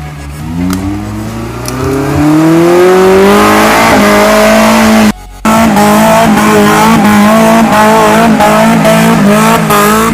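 Suzuki Samurai four-cylinder engine revving hard, its pitch climbing for about four seconds, then held at the rev limiter with a rapid bouncing wobble as the limiter cuts in and out. About five seconds in the sound drops out briefly, then comes straight back.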